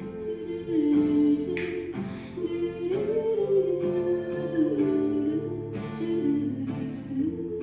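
Slow folk song, a voice singing a gliding melody over acoustic guitar.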